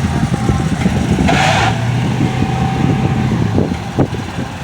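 A motor vehicle's engine running with a steady low rumble, with a short hiss about a second and a half in.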